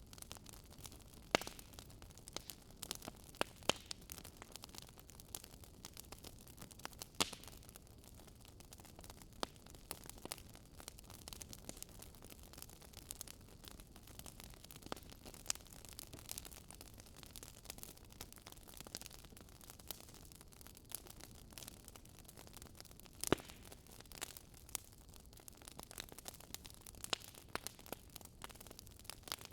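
Wood fire crackling: irregular sharp pops and snaps over a faint, steady hiss, with a couple of louder snaps, one about a second in and one near 23 seconds in.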